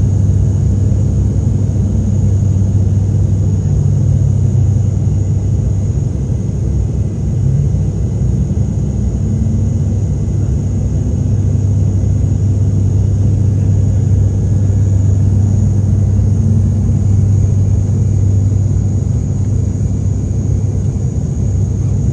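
Steady low drone of an airliner's engines and airflow heard inside the passenger cabin in flight, with a faint steady high whine above it.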